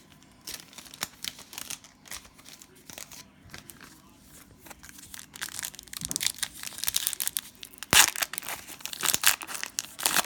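Cellophane trading-card pack wrapper crinkling and tearing as it is opened by hand. It grows louder in the second half, with a sharp rip about eight seconds in.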